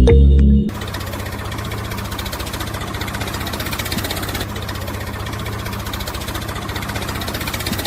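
A small motor running steadily with a fast, even rattle, the drive of a DIY mini toy tractor. Background music cuts off about a second in.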